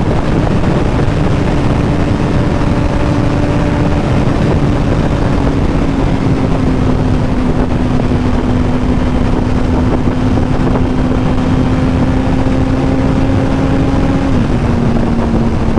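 Yamaha R1 inline-four engine holding a steady cruise, its hum sagging slightly in pitch and easing off a bit near the end, under heavy wind rush.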